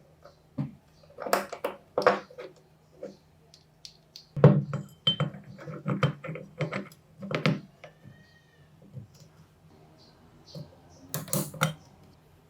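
Small metal parts clinking and knocking as they are handled and set down, in irregular clusters of sharp taps, over a faint steady hum.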